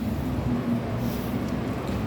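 Steady low vehicle rumble with a faint, even hum.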